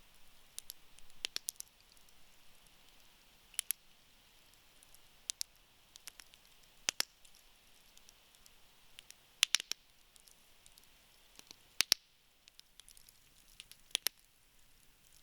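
Wood campfire crackling: sharp irregular pops and snaps, a few seconds apart and sometimes in quick pairs, over a faint hiss of burning.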